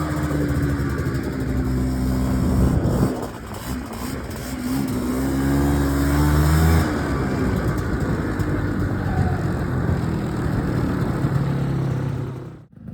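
Ski-Doo Freestyle 300 snowmobile's small two-stroke engine running under way, its pitch falling and climbing as the throttle is worked. The engine note drops about three seconds in, rises again, and breaks off briefly near the end.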